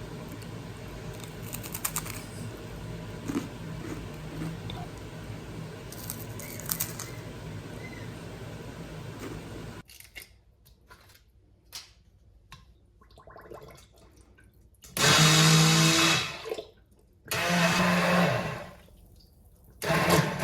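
A steady hiss with a low hum and a few light clicks, cutting off sharply about halfway through. After a quiet stretch, a small electric kitchen motor runs in three short bursts of a second or two each.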